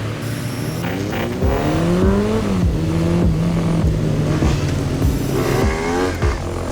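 Motorcycle engines revving, several rising and falling in pitch while one holds a steady note, over a steady low beat.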